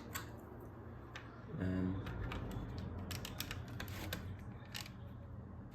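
LEGO bricks clicking and clattering as plastic pieces are picked out and pressed onto the build, with irregular sharp clicks throughout, busiest about three seconds in and again near four to five seconds.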